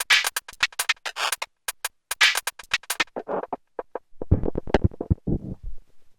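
Erica Synths Perkons HD-01 drum synthesizer playing a sequenced pattern of short, clicky percussive hits, being tweaked live. About halfway through the hits turn darker and lower, and deep bass hits come in near the end.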